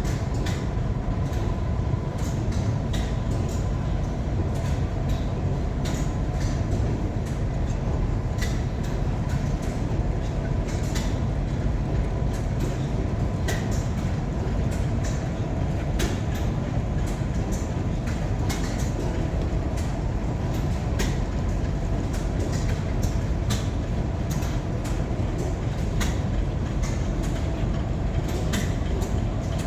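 Heavy machinery running steadily: a dense low rumble with a faint steady whine, and frequent irregular sharp clicks and knocks over it.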